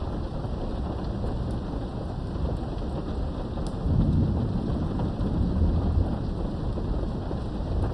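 Steady rain with a low rumble of thunder that swells about four seconds in and dies away over the next few seconds, heard from indoors behind a window.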